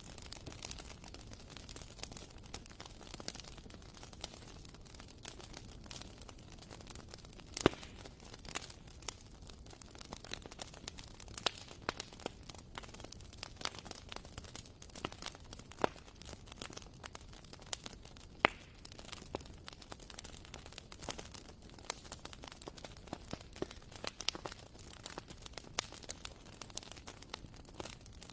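Wood fire burning in a fireplace: a soft steady hiss with irregular crackles and pops, two sharper pops standing out, one about a third of the way in and one about two thirds in.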